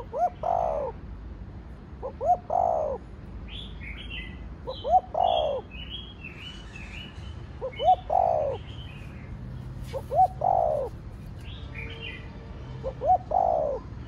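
Spotted dove cooing: six phrases about two and a half seconds apart, each a quick pair of short notes followed by a longer, falling coo. Smaller birds chirp at a higher pitch between the coos.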